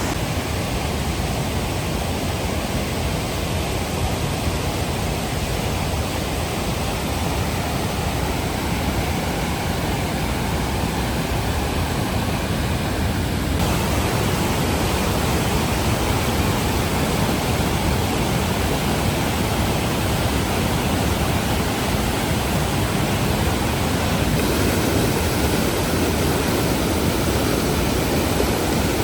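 Steady roar of rushing mountain water, with an abrupt shift in its tone about halfway through and again later.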